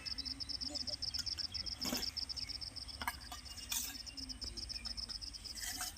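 Insects chirping: a steady, high pulsing trill of about five pulses a second, with a few short knocks scattered through it.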